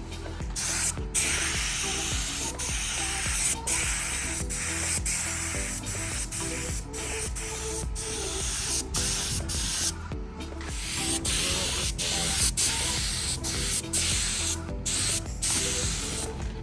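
Paint spray gun hissing as it is triggered in passes, the hiss breaking off briefly between strokes, with background music underneath.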